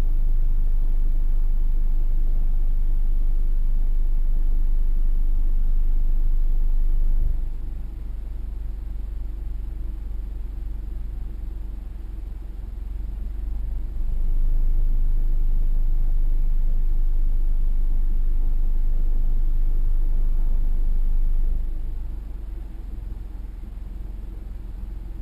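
2015 Mazda CX-5's four-cylinder Skyactiv engine running through a Corksport axle-back muffler, a steady low exhaust rumble. It drops to a softer level about seven seconds in, comes back up around fourteen seconds, and drops again a few seconds before the end.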